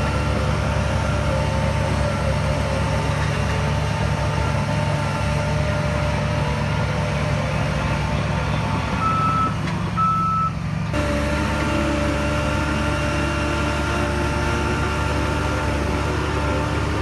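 Heavy diesel earthmoving machinery running steadily, with a reversing alarm beeping over the engine. The sound changes abruptly about eleven seconds in.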